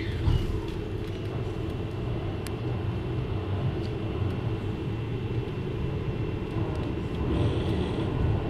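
Interior running sound of a JR Hokkaido 733 series electric multiple unit: a steady rumble of wheels on rail, with a few faint clicks.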